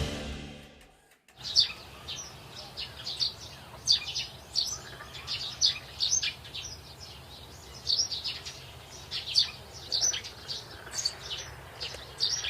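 Background music fading out, then small birds chirping: many short, high notes several times a second over a faint low hum.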